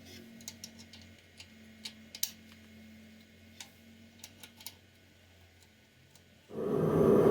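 Scattered light metallic clicks and taps of parts being handled, then about six and a half seconds in a power tool starts abruptly and runs loudly and steadily.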